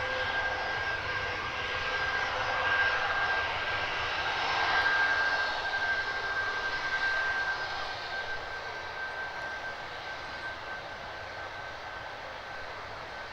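Jet airliner's engines passing, a steady high whine over a rushing noise. It is loudest a few seconds in, then fades away.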